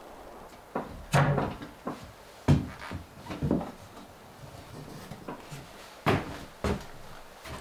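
A series of irregular knocks and clunks, several close together in the first few seconds and two more near the end.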